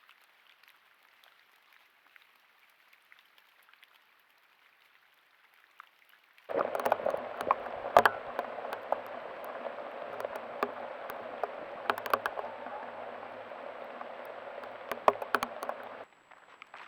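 Falling precipitation: a dense, steady patter peppered with sharp ticks of individual hits. It starts abruptly about six and a half seconds in and cuts off suddenly near the end, with only a faint patter before it.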